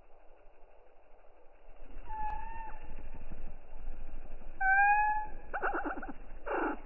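Animal calls: two short, level-pitched cries, then from about halfway through a rapid series of falling calls, several a second.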